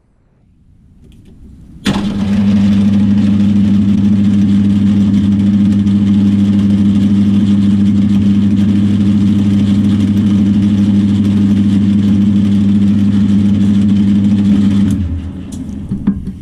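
Metal lathe motor switched on about two seconds in, running with a steady low hum, then switched off and winding down near the end.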